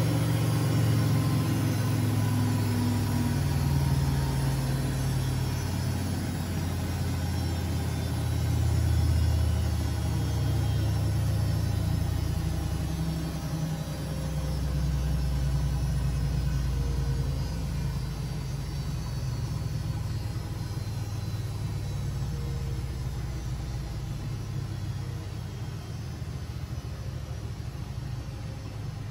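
Siemens Siwamat 6143 washing machine running, a low rumbling hum with a faint whine that slides down in pitch, slowly getting quieter as the drum slows.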